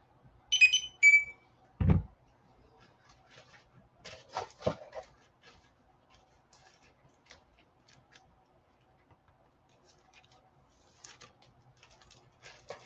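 Comic books and their bags being handled on a table: a single dull thump as something is set down, then clicks, knocks and soft rustling of paper and plastic. Just before the thump come two short, high-pitched chirps.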